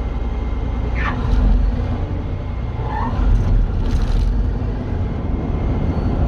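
Claas Lexion 480 combine harvester running steadily while harvesting, a deep, even rumble with an engine hum heard from inside the cab.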